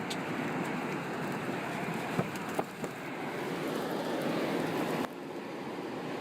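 Steady rushing storm noise of wind and rain during a tornado, with a few sharp knocks around the middle; the noise drops abruptly about five seconds in.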